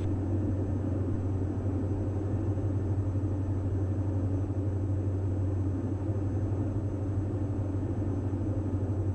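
Steady low drone of the Diamond DA42 NG's twin turbo-diesel engines, heard inside the cabin.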